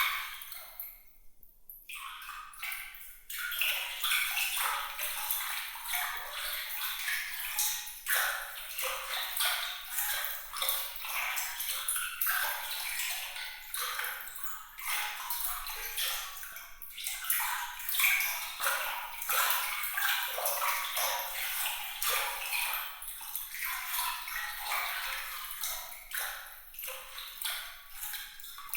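Water trickling and splashing in a busy, uneven patter of light, bright droplet sounds, with almost no low end. It thins briefly about a second in.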